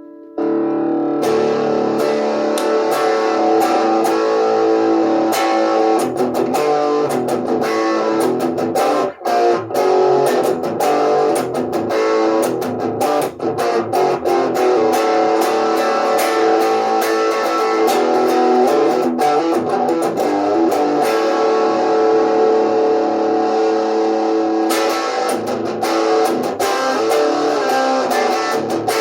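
Guitar, most likely electric, played through a Master Play PA-20 amplifier, strummed and picked continuously; it starts abruptly about half a second in.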